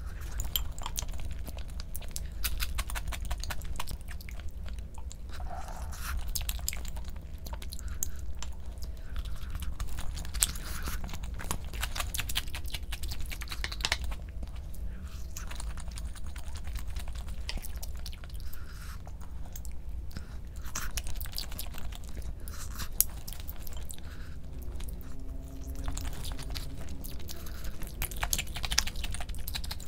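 A person chewing and crunching food close to the microphone, with many small mouth clicks throughout.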